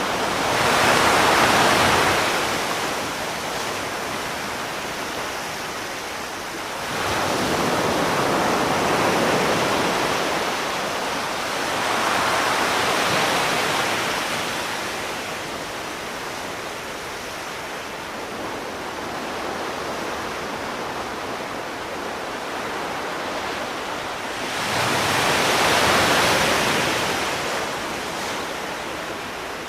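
Sea waves breaking and washing ashore, the surf swelling up and dying back several times over a steady hiss of water.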